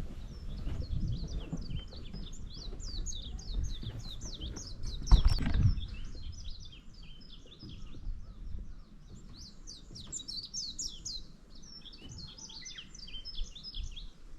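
Many small birds chirping in quick, overlapping short calls, a dense chorus that goes on throughout. A brief loud noise cuts across it about five seconds in.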